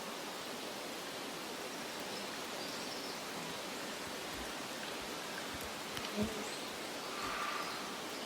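Steady, even rushing hiss of outdoor ambience, with a brief low thump about six seconds in.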